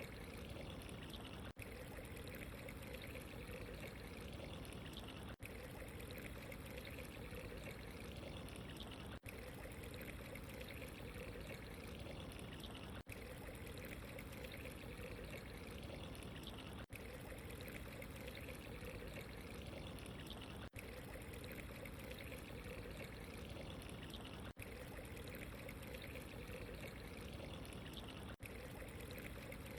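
Steady running water, a soft pouring and trickling, with a tiny break in the sound about every four seconds.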